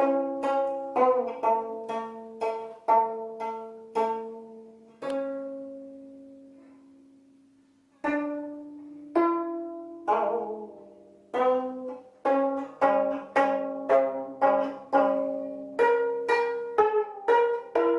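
Gayageum (12-string Korean zither) played solo, plucked notes ringing and dying away, some of them bent in pitch. About five seconds in one low note is left to ring out for about three seconds, then the plucking resumes, quicker and denser toward the end.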